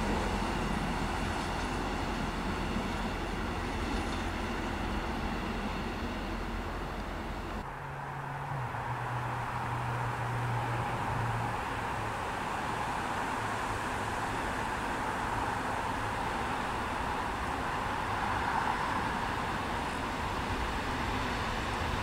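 Steady distant rumble of railway running sound, broken by a cut about eight seconds in. After the cut, an EN71 electric multiple unit is approaching along the track from afar.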